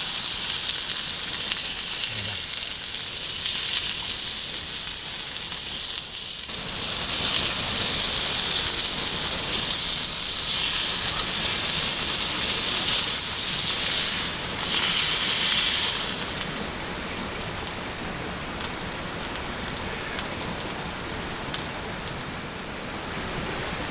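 Beef steak sizzling in a pan over a camp fire, a steady hiss that grows fuller about a quarter of the way in. Past two-thirds the sizzle drops to a quieter hiss with scattered crackles.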